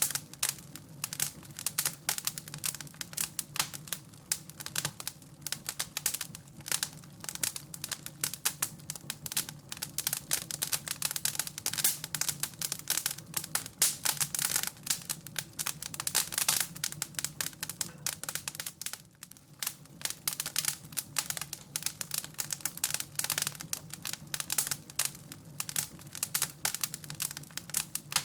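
Wood fire crackling in a fireplace: dense, irregular pops and snaps over a steady low hum.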